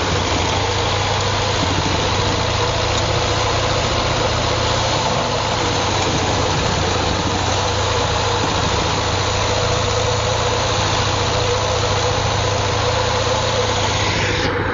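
Vehicle engine running steadily at a constant, idle-like speed, with no change in pitch.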